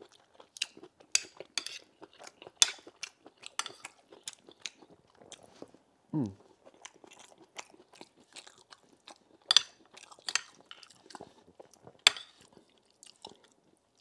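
Close-miked chewing of a mouthful of rice and stew with beef, with wet lip smacks and sharp mouth clicks throughout. About six seconds in there is a short hum that falls in pitch.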